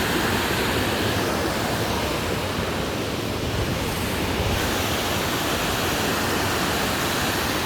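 Steady, loud rush of water from the nearby waterfall and its creek.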